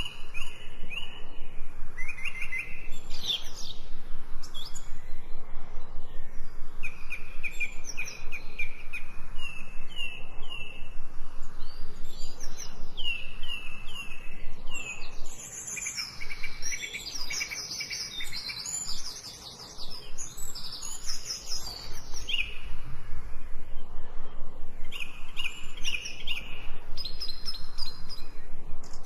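Several songbirds chirping and singing in quick series of repeated notes, one series after another, over a steady hiss of rain.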